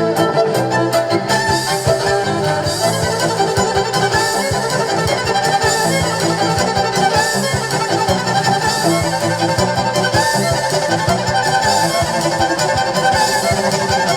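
Live band music: a bowed violin-like melody over bass and a steady drum beat.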